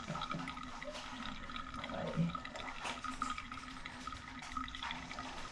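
Water running from a tap into a basin with a slow drain, a steady rush of water, with a few light clicks.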